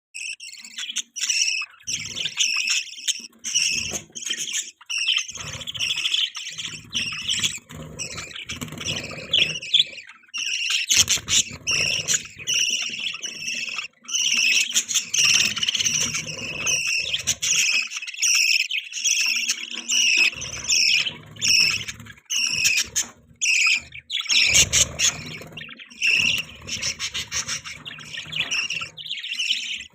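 Budgerigars chattering and warbling in a continuous stream of fast chirps, the courtship chatter of budgies in mating season. Low rustling sounds come and go at intervals beneath it.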